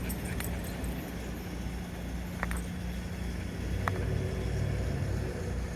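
A motor vehicle's engine running steadily, with a couple of light clicks.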